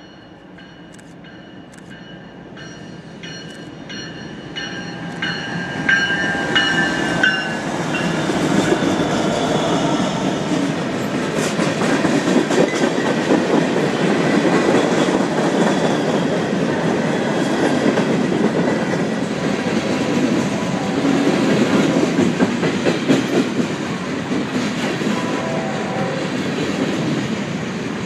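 Train horn sounding a chord that drops in pitch as the locomotive goes by, then the train passing close with a steady rumble and clickety-clack of wheels over rail joints.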